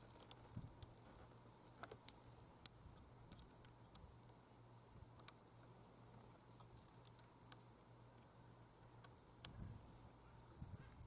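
Faint, irregular light clicks and taps, a dozen or so scattered through, over a low steady hum.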